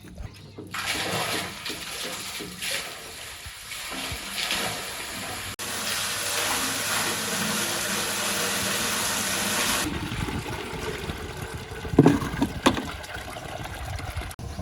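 Water gushing and splashing in a steady rush with a low hum beneath it, which stops abruptly about ten seconds in. Near the end come two loud sharp knocks.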